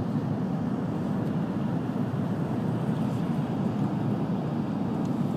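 N700-series Shinkansen running at high speed, heard inside the passenger cabin: a steady low rumble and rush of wheels and air.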